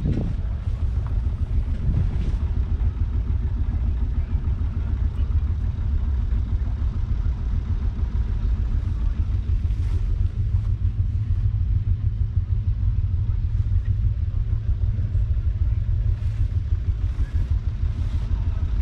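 1976 UTB Universal 550 tractor's 3.1-litre four-cylinder diesel engine running steadily at a constant speed.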